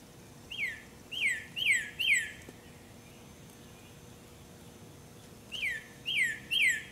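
A bird singing short, loud, downslurred whistles in two runs of about four notes each: one about half a second in, the other starting near the end.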